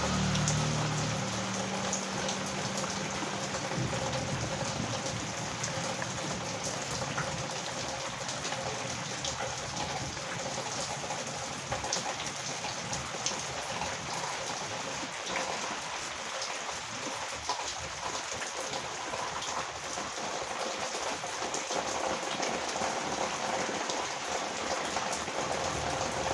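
Heavy rain pouring steadily onto a road and nearby surfaces, a dense hiss full of small drop ticks. A passing vehicle's engine fades out during the first few seconds.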